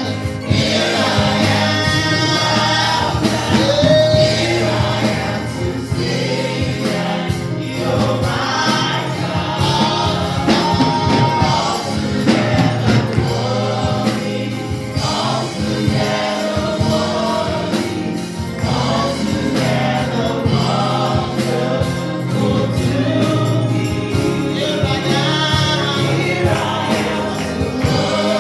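Gospel praise music: a choir singing over a band with a steady beat.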